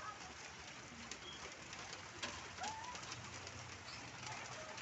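Birds calling outdoors, a scattering of short chirps and calls over a steady hiss.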